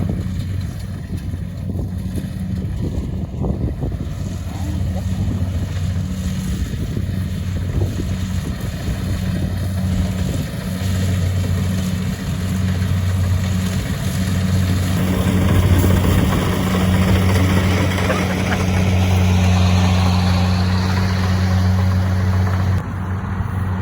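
An engine running steadily with a low hum. It grows louder in the second half.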